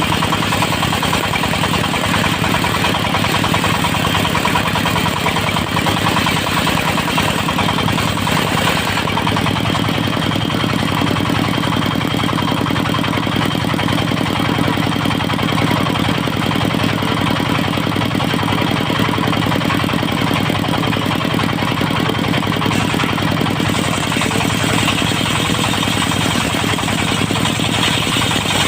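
Engine of a mobile circular sawmill running steadily with a fast even firing beat.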